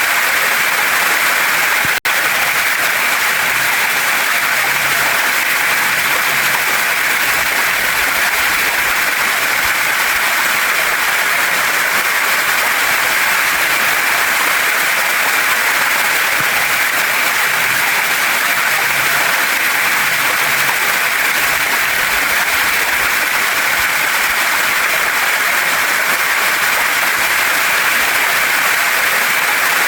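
Waterfall and stream water rushing steadily over rocks, a loud even hiss. The sound drops out for an instant about two seconds in.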